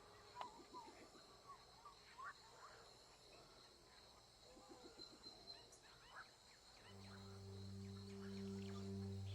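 Faint jungle ambience: scattered short bird chirps and calls over a thin, steady high insect whine. About seven seconds in, a low, sustained music drone comes in and slowly swells.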